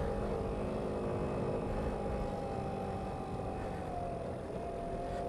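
Small scooter engine running steadily under way, its pitch easing down slightly a little past halfway through.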